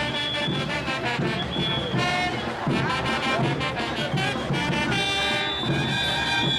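Brass band playing traditional parade music over a steady drum beat, with held horn notes.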